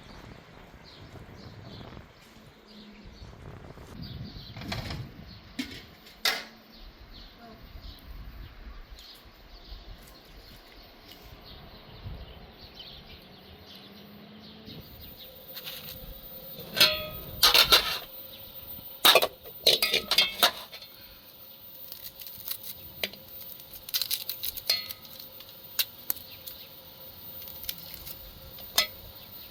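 Cooking utensils and dishes clinking and knocking against each other. There are a few scattered clicks at first, then a run of sharp, loud clinks and knocks from about halfway on.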